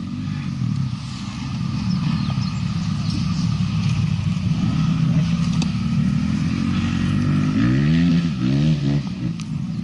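Motocross motorcycle engines idling, with a few quick revs up and back down about eight seconds in.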